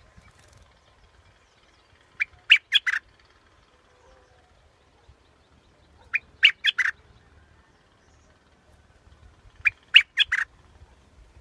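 Yellow bulbul song played as a decoy call. A short phrase of about five quick, bright notes repeats three times, roughly every four seconds.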